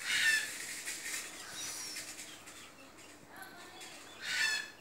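Two short, shrill bird calls, one right at the start and a second one near the end, with faint chirps in between.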